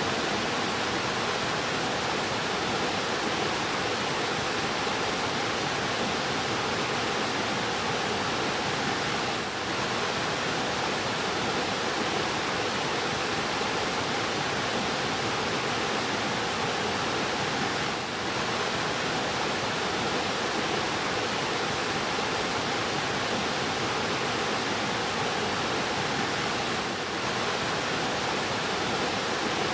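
Fast-flowing river running steadily as an even, dense wash of water noise, with three brief slight dips in level about nine seconds apart.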